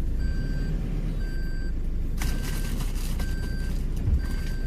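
An electronic warning beeper sounds about once a second, each beep about half a second long, over a vehicle engine running steadily.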